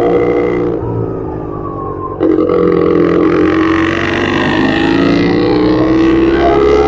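Yamaha R25 parallel-twin engine under way. The revs fall off-throttle for about two seconds, then the throttle snaps open and the engine note climbs steadily as it accelerates.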